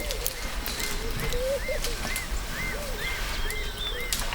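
Birds calling: a regular series of short, high, arched whistled notes, about two a second, over a few lower, slower notes.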